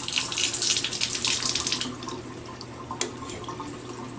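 A faucet running hot and cold water, left open to bleed air from the lines after the system is refilled. The rushing water is loud and uneven for about two seconds, then runs quieter, over a steady low hum.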